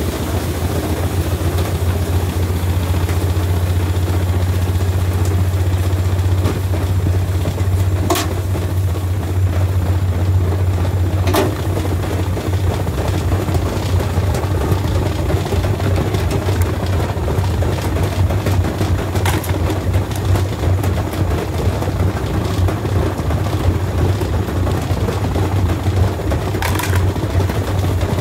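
Washing machine running with a loud, steady low drone, with four sharp knocks or clanks spread through it.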